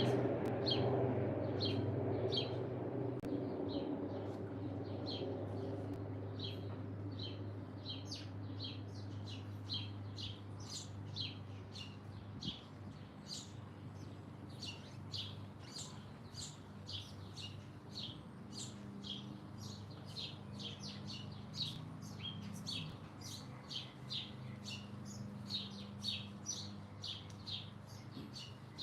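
Small songbirds chirping over and over in short, high chirps, about two a second. A low engine rumble from some passing vehicle or aircraft fades away underneath over the first several seconds.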